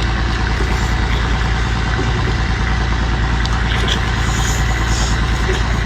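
A steady, low mechanical drone with an even fine pulse, like an engine running at idle, with no change in level throughout.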